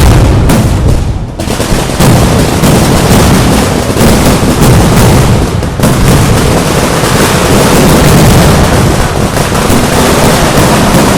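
Kerala temple fireworks (vedikettu) going off as a dense, continuous barrage of loud firecracker bangs, so close together that they run into one another almost without a break.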